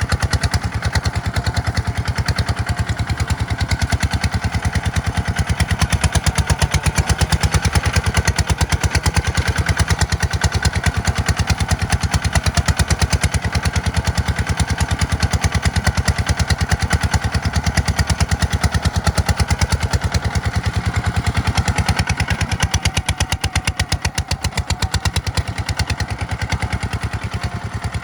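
Tractor's diesel engine running steadily under load, with a rapid, even chugging. It eases off slightly near the end.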